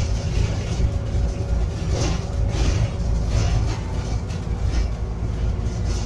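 Scania N280UD biogas double-decker bus heard from inside, its engine running steadily under way with a low drone and a few steady tones above it. A few brief higher noises come in about two and three seconds in.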